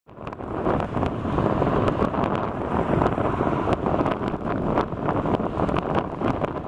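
Strong storm wind buffeting the microphone: a loud, rushing roar with uneven gusts and brief crackles.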